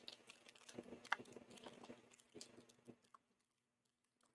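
Faint clicks and light rustling of a snack-bar package being handled, stopping about three seconds in.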